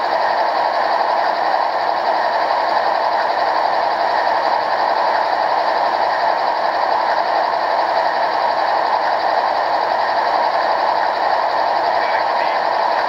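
Steady rumble of a running train: an even, unbroken noise with no distinct beats or pitch changes.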